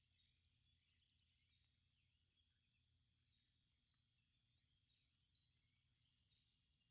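Near silence, with faint scattered bird chirps and a steady faint electronic hum.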